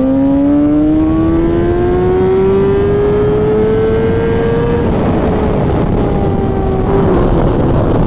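Inline-four sport motorcycle engine pulling hard under acceleration, its pitch climbing steadily for about five seconds. The pitch then drops and the engine runs on at a lower, steadier pitch.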